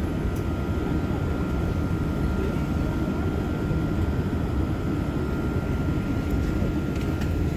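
Airbus A380 jet engines running with a steady low rumble and a faint, steady high whine.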